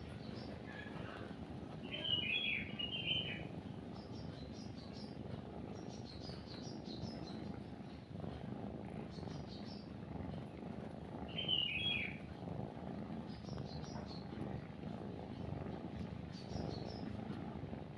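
Cat purring steadily, with birds chirping over it: two louder runs of chirps about two seconds in and again around twelve seconds, and fainter, higher chirps scattered throughout.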